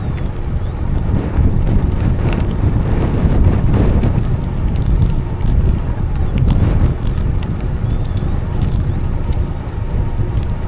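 Wind buffeting the microphone of a camera on a moving bicycle, a steady loud low rumble.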